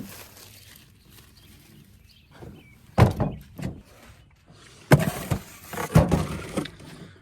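A series of sudden thuds and knocks, like things being handled and set down in a vehicle. The loudest come about three seconds in, near five seconds and near six seconds, with lighter knocks between them.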